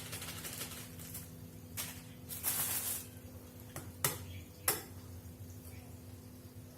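Washing up a bowl by hand: a short rush of noise a couple of seconds in, then two sharp clinks of dishware about half a second apart.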